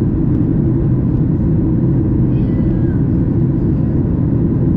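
Steady cabin noise of a Boeing 737 MAX 8 in flight: a constant low rush of airflow and engine sound heard from inside the passenger cabin.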